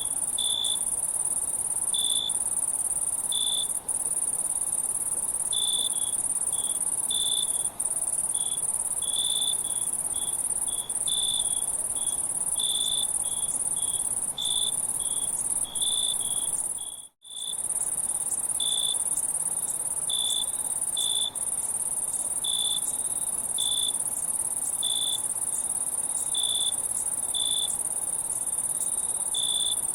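Insects, cricket-like, trilling: a continuous high-pitched drone with short chirps at a lower pitch recurring irregularly, about one or two a second. All sound cuts out for a moment a little past halfway.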